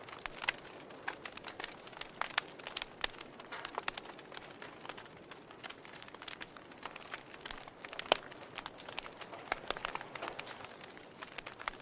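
Fire in a fireplace crackling: irregular sharp pops and snaps over a soft hiss, with one louder pop about eight seconds in.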